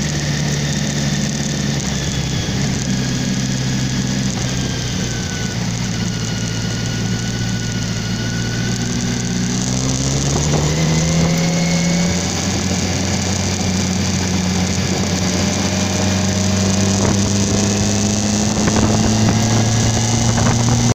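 Motorcycle engine heard while riding: its note sinks a little as the bike slows for a tight bend, then climbs steadily from about halfway through as it accelerates out of the bend and along a straight, over a steady rushing hiss.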